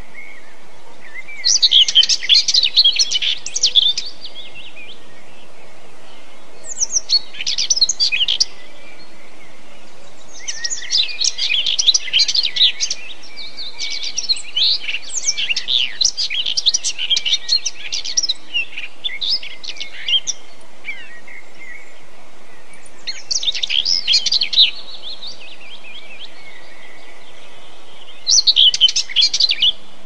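A songbird singing in phrases of rapid high notes, each lasting one to a few seconds with short pauses between, over a steady background hiss.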